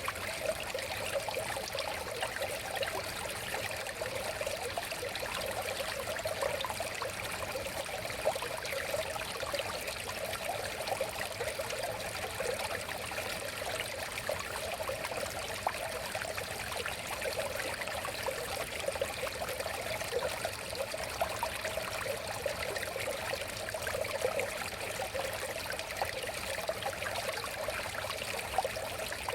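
River water flowing steadily, a continuous babbling and trickling without any break or change.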